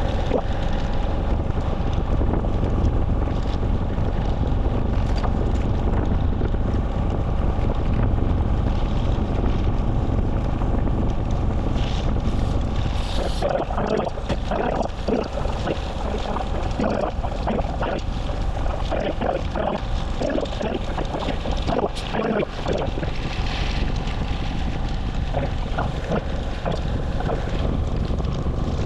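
Wind rushing over a moving camera's microphone, a steady low rumble, with a scatter of short, sharper sounds through the middle stretch.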